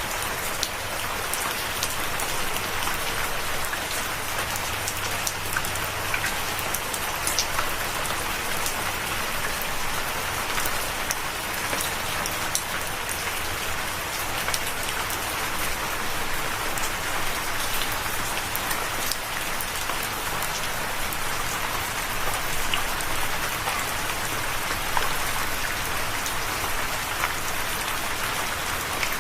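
Steady rain falling, an even hiss with many separate sharp drop hits scattered through it.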